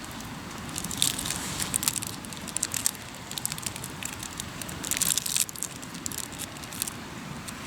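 Hardwood campfire crackling and popping, with thick runs of crackles about a second in and around five seconds.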